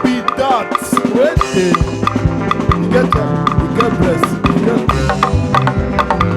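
Live band music without singing: drums and percussion keep a steady beat under gliding melodic lines.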